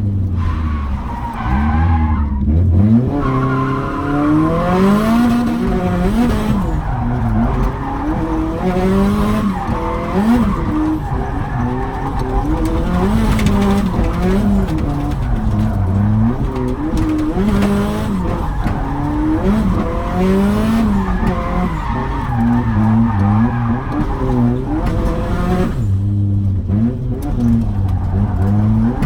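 Drift car being driven sideways: the engine revs up and down every second or two as the throttle is worked, over the continuous hiss and squeal of the rear tyres sliding.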